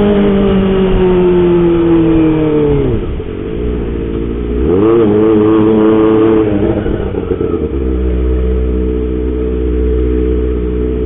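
Kawasaki ZX-25R's inline-four engine through a loud homemade aftermarket exhaust: revs falling away as it rolls off the throttle, then rising again about four and a half seconds in and held for about two seconds before dropping to a steady low note.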